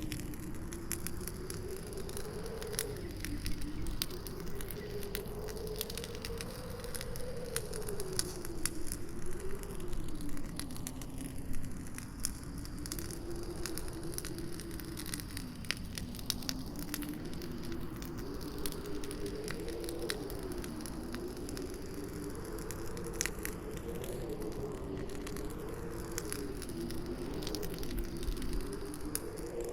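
Campfire crackling and popping with many irregular sharp snaps, over a howling wind whose low moaning pitch slowly rises and falls.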